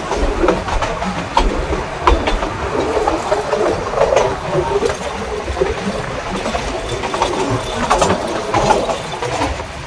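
Nilgiri Mountain Railway (Ooty toy train) on the move, heard from aboard a carriage: steady running rumble with irregular clicks and rattles from the wheels and carriage.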